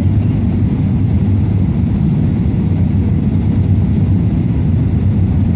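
Steady, low drone of a small propeller airplane's engine, holding an even pitch and level throughout.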